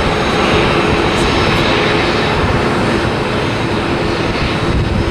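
Jet engines of a Boeing 787 airliner running steadily as it turns onto the runway, a dense, loud roar with a faint steady whine through it.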